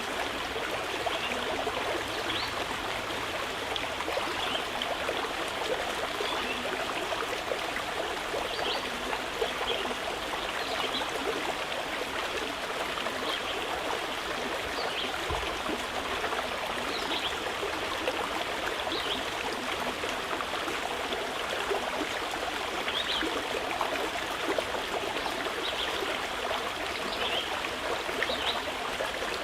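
Mountain river flowing steadily with a constant rushing babble, with brief faint bird chirps now and then.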